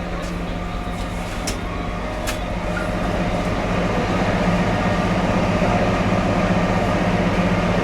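Kalka–Shimla narrow-gauge toy train's steady low hum and rumble, growing louder after about three seconds, with a couple of sharp clicks early on.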